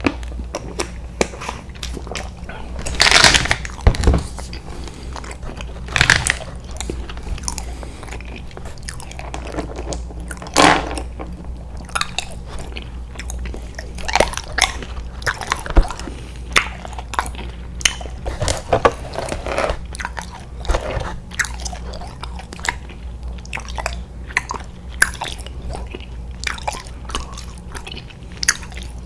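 A person biting and chewing sweets: a steady stream of wet mouth clicks and crunches, with a handful of louder bites spread through.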